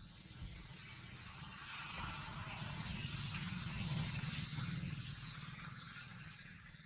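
A vehicle passing by, its noise and low rumble swelling to a peak midway and fading toward the end, over a steady high-pitched insect buzz.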